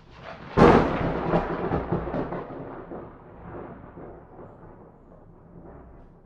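A thunderclap: a sharp crack about half a second in, followed by a long rolling rumble that slowly dies away over the next five seconds.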